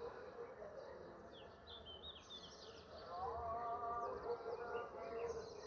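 Small birds chirping in quick, short sweeping notes, several calls overlapping. About three seconds in, a held, wavering tone joins them for about a second.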